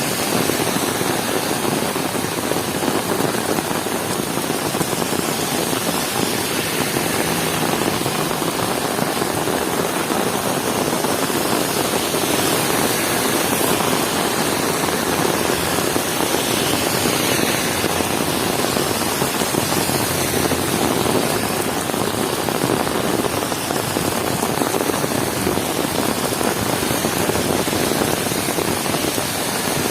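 Heavy rain falling steadily, a dense, even hiss of rain with no let-up.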